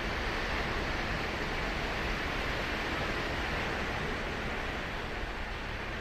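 Ocean surf breaking and washing up the shore: a continuous rush of water noise that swells a little midway and eases slightly near the end.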